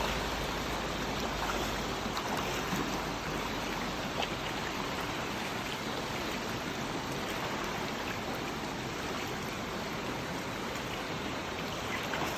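Steady running water of a river or stream, an even rushing with a few small ticks.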